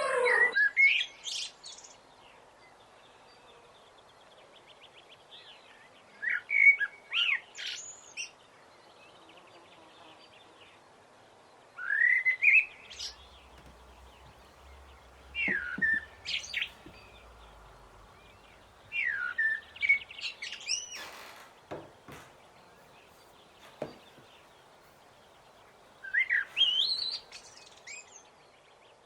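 Songbird singing: short, quick chirping phrases of rising and falling notes, about six of them a few seconds apart, over a faint steady background.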